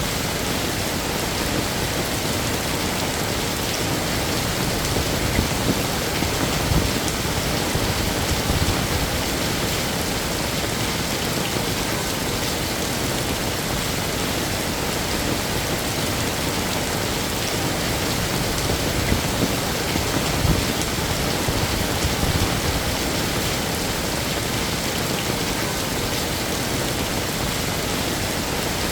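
Heavy rain falling steadily, a dense even hiss, with a few brief louder low thumps about a quarter of the way in and again about two-thirds of the way in.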